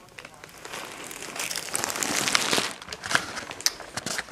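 Shopping bag rustling and crinkling with sharp crackles, loudest about halfway through.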